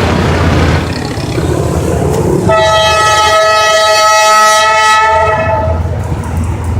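Train horn sounding one long blast of about three seconds, starting about two and a half seconds in, over the low rumble of the passing train.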